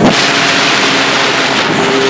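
Suzuki RG80 two-stroke single, on a 21 mm Dell'Orto carburettor with an open intake, running under a moped rider. Its steady high note drops sharply at the start, then sits low under a loud rushing noise, and comes back near the end.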